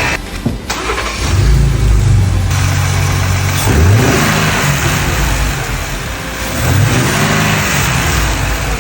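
Second-generation Ford Raptor's 3.5-litre twin-turbo V6 running, revved up and back down twice, about 4 seconds in and again about 7 seconds in. New factory catalytic converters and a new alternator are fitted, the alternator being the cause found for the earlier start-up noise.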